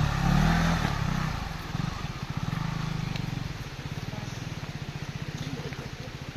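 Motorcycle engine running at low revs. The revs shift in the first second or two, then settle into a steady, even pulsing.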